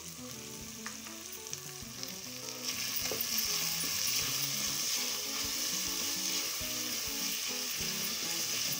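Chopped onion and tomato frying and sizzling in oil in the pot of a Geek robotic rice cooker, stirred with a spoon. The sizzle grows louder about three seconds in.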